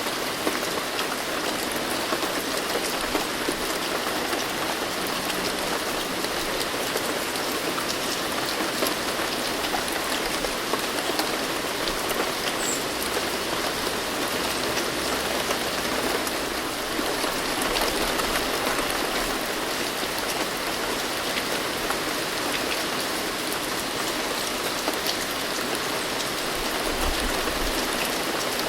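Steady rain falling on a surface, a dense even hiss of many small drops with fine patters throughout.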